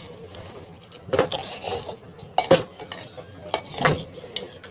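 Utensils clinking and scraping against dishes while eating, with three louder clinks roughly a second and a half apart among lighter ones.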